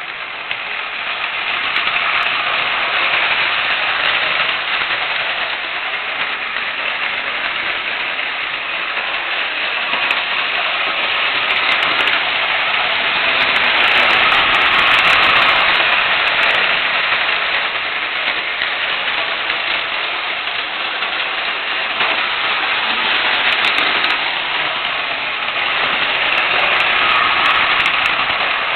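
Lionel 2018 model train running on its track pulling passenger cars: a steady whir of the locomotive's motor and the wheels rolling, rising and falling a little in loudness as it runs.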